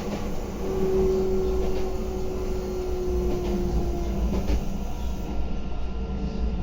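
Meitetsu 3150 series electric train running on the line, a steady rumble with a few light knocks. A held tone sounds for about three seconds near the start and sinks slightly in pitch.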